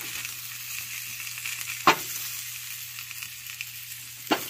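Butter sizzling on a hot sheet pan over stove burners as breaded chicken patties are set down on it, with two sharp knocks about two and a half seconds apart as patties land on the metal pan.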